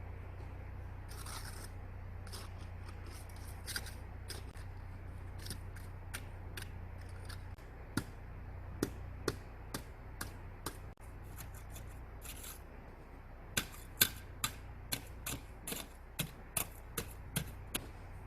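A series of sharp clicks, irregular at first and then coming about two a second in the second half, over a low steady hum that drops away about seven and a half seconds in.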